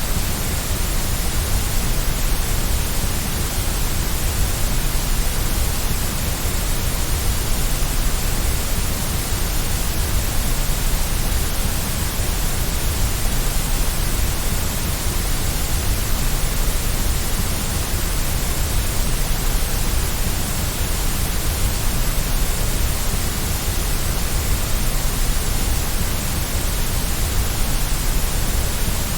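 Steady white noise: a continuous, even hiss with a strong low rumble underneath, unchanging throughout.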